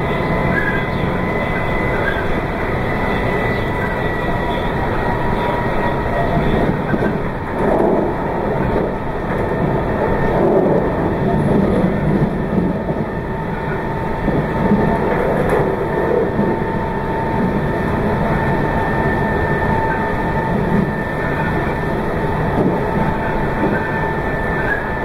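Meitetsu 2200 series electric train running at steady speed, heard from aboard: a continuous rumble of wheels on track with a faint steady whine.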